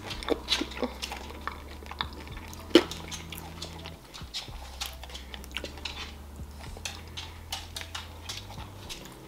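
Close-miked mouth sounds of chewing Toblerone chocolate: soft wet smacks and small clicks throughout, with one sharper click about three seconds in.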